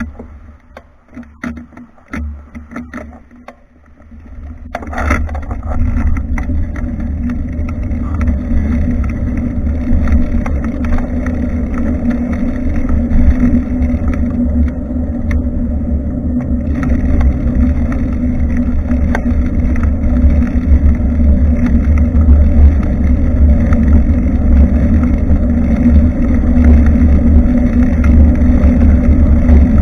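Wind buffeting the microphone of a bicycle-mounted action camera, with tyre and road rumble, a steady low rumble that grows louder as the bike gets up to speed about four seconds in. Before that it is quieter, with scattered clicks and knocks.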